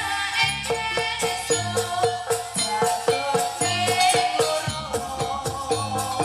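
Live jaranan campursari music: pitched percussion struck in a steady quick beat over low sustained tones, with a shaken rattle-like jingle.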